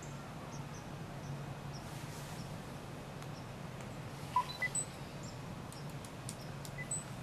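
Faint, steady low rumble of a distant waiting train, with a few faint high chirps and clicks a little after four seconds in.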